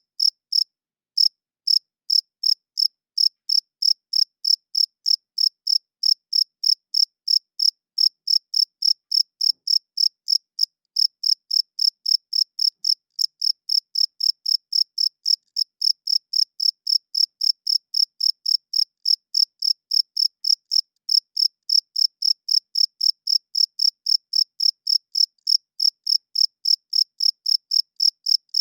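Male crickets chirping in a steady, rhythmic train of short, high-pitched chirps, about four a second, with brief pauses near the start and about ten seconds in.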